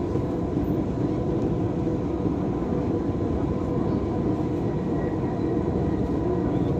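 Steady running noise inside a Dubai Metro train car in motion: an even low rumble with a faint steady whine above it.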